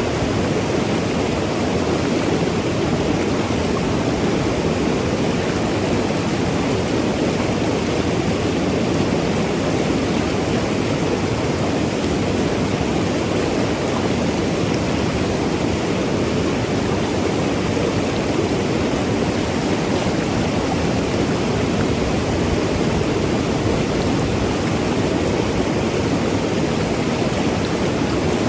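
Mountain river rushing and gurgling over rocks, a steady, unbroken wash of water noise.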